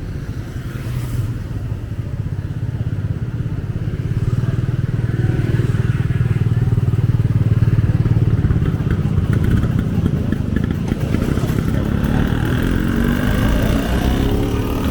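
A motorbike engine running close by, growing louder about four seconds in and staying strong, with street voices in the background.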